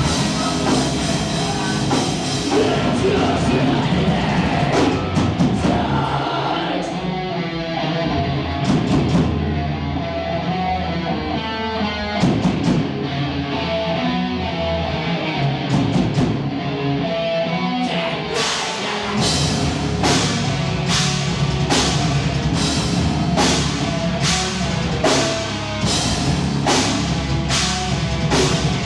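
Live rock band playing loud, with guitars and a drum kit. The sound thins out to a sparser passage about a quarter of the way in, then the full band comes back about two-thirds in, with hard drum and cymbal hits about once a second.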